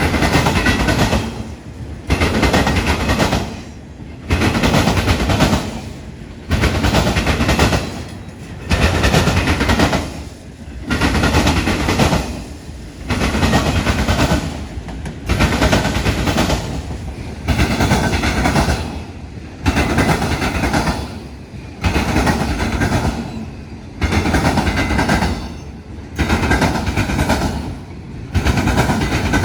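Autorack freight cars rolling across a railroad diamond crossing, the steel wheels clattering over the crossing. The clatter comes in loud surges with short dips about every two seconds.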